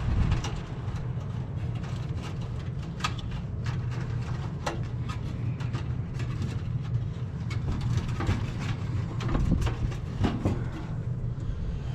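Light scattered clicks and taps of hands working with wiring and small parts, over a steady low rumble.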